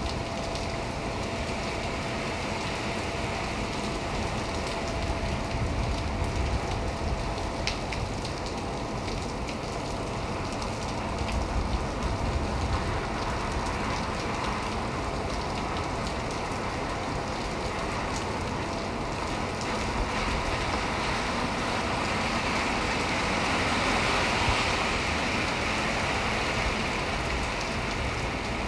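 Heavy rain pouring steadily onto wet pavement and awnings, an even hiss that swells slightly for a few seconds near the end.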